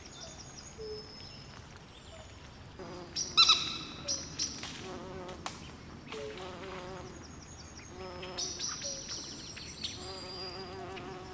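Swamp night ambience of frogs, insects and birds calling over one another: repeated short trills and chirps, some low, some high-pitched. About three seconds in comes one loud, short call with a clear pitch, the loudest sound here.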